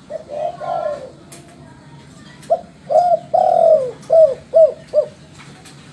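Spotted dove (derkuku) cooing: a soft phrase at the start, then about two and a half seconds in a loud run of low coos, a couple of longer ones followed by three short, quick falling notes.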